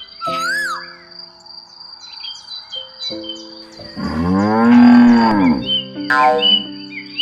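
A cow mooing once, a long rising-and-falling moo about four seconds in, over background music with held notes and short bird-like chirps.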